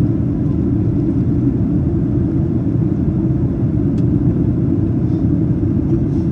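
Steady low rumble inside the cabin of a Boeing 737-800 in flight during descent: its CFM56-7B turbofan engines and the airflow over the fuselage. There is a faint click about four seconds in.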